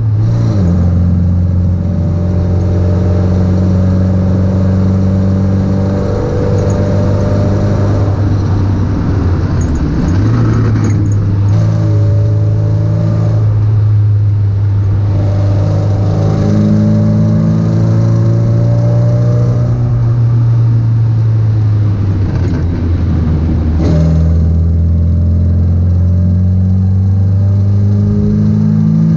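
MGB GT's engine pulling hard uphill, its note climbing and falling with the revs. The pitch breaks and drops sharply right at the start, about a third of the way in, and again about four-fifths of the way through.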